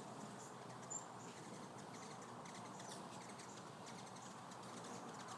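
Faint birds in a flock in the surrounding trees: a soft outdoor haze with scattered faint chirps and one short, high chirp about a second in.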